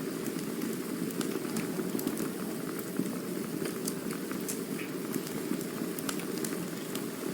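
Campfire burning: a steady low rush of flames with frequent small, sharp crackles and pops from the burning wood.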